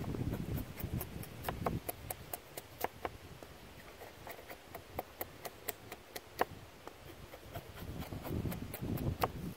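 Dry wood giving off irregular sharp cracks and snaps, several a second, over a low rumble that swells near the end.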